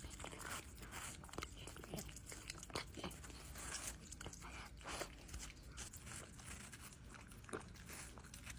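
A dog chewing, faint irregular crunching clicks.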